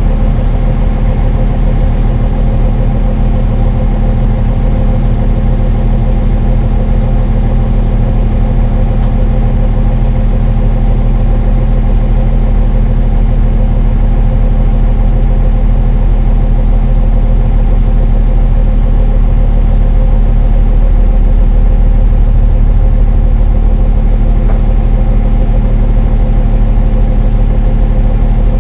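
Brøyt X21 excavator's diesel engine running steadily at constant speed, a deep, even engine note with no revving.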